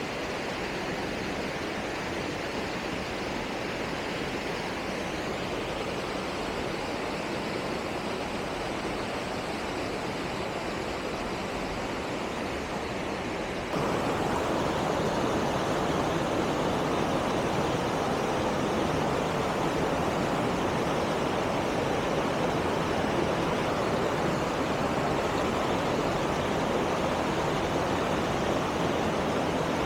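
Waterfall and rapids rushing steadily. About halfway through the sound jumps suddenly louder and fuller, and holds there.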